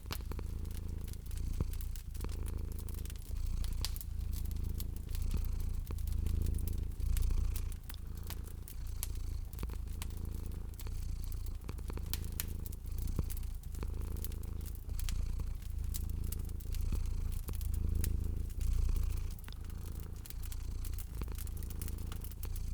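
A domestic cat purring in long, even cycles of breathing in and out, with the small sharp pops and crackles of a wood fire scattered throughout.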